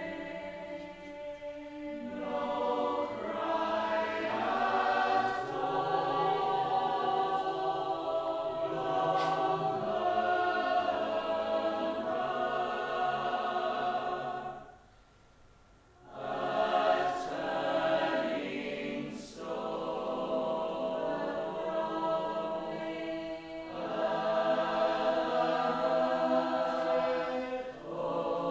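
Choir singing unaccompanied in sustained, layered harmony, breaking off into a pause of about a second and a half about halfway through before the voices come back in.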